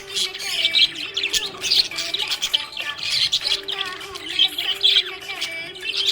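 Budgerigars chirping and chattering without a break, a dense run of quick high chirps and warbles.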